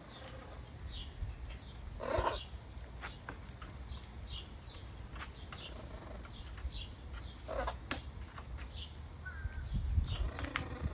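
A bird chirping over and over, short high calls about once a second, with two louder rasping bursts about two seconds in and again later. Wind rumbles on the microphone underneath.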